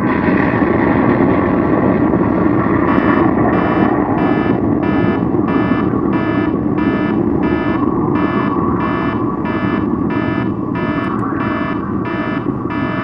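Loud, steady rumble of a train, with a railroad grade-crossing bell ringing about twice a second from about three seconds in.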